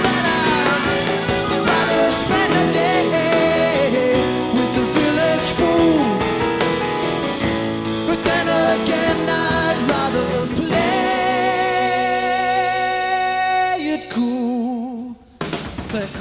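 Rock band playing live with a singer over guitars and drums. Near the end the band holds one long sustained chord that breaks off abruptly, and the drums start up again.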